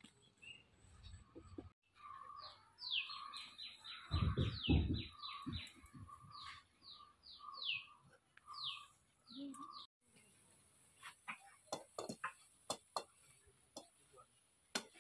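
A bird calling: a quick run of short, falling chirps that slows and stops after several seconds, with a low thump in the middle. Then light clicks and scrapes of a spatula stirring in a metal pan.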